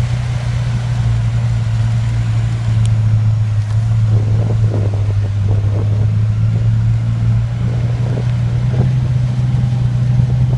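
A motor vehicle's engine runs at a steady speed with a loud, even low drone, with a few faint rough rattles in the middle.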